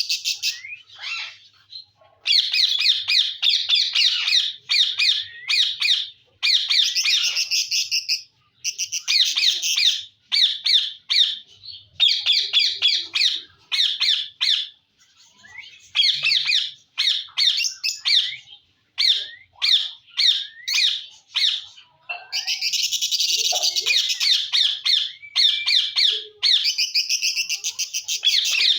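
Indian ringneck parakeet squawking: loud, high-pitched harsh calls in fast runs of repeated notes, with short pauses between the runs.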